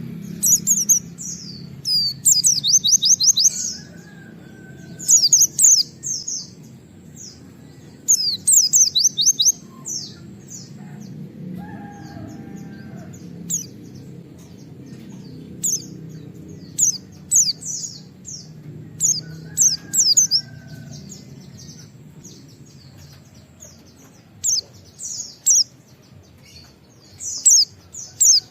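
White-eye (pleci) singing in repeated bursts of fast, high, thin chirps, rapid runs of 'wit wit' notes with short pauses between them, over a steady low background hum.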